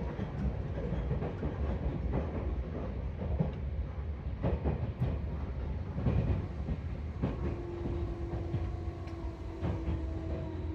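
Seibu 4000 series electric train running as heard from on board, its wheels clacking over rail joints and points under a steady rumble as it slows to enter a siding. From about seven seconds in, a steady tone joins the rumble and falls slightly in pitch.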